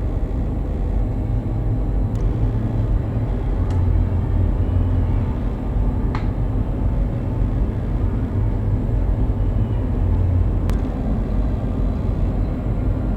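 Steady low rumble of a river cruise ship under way, with a few faint clicks along the way.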